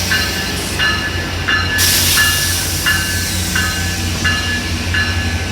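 Metrolink commuter train's diesel locomotive running with a steady low rumble, while a bell rings regularly about once every 0.7 seconds. A brief burst of air hiss comes about two seconds in.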